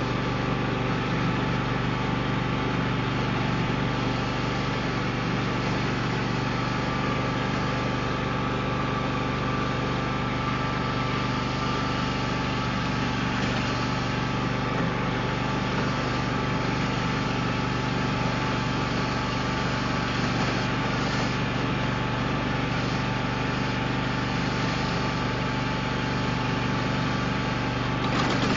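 Husqvarna riding lawn mower's 24 hp Kawasaki V-twin engine running steadily and fairly quiet at an even speed.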